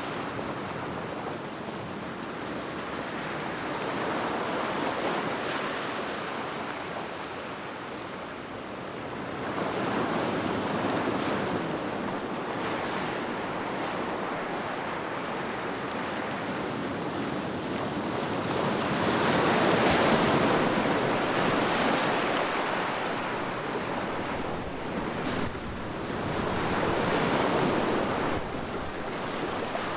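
Sea waves breaking and washing on a shore in a continuous surf wash that swells and eases every several seconds, loudest about two-thirds of the way in.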